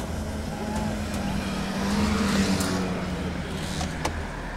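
Car engine idling with a steady low hum, while another vehicle's noise swells and fades around the middle.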